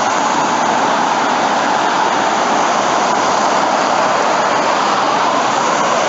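Steady road traffic noise: tyres of passing cars on a busy road, a loud even hiss that swells slightly midway.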